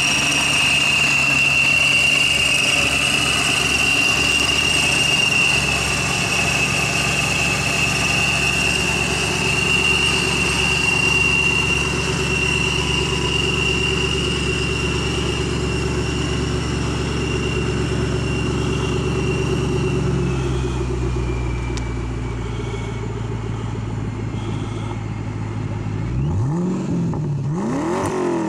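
Supercharged 4.6-liter V8 of a 2010 Ford Mustang GT (Paxton Novi supercharger) idling steadily with a high whine over it, then revved in a couple of quick blips near the end.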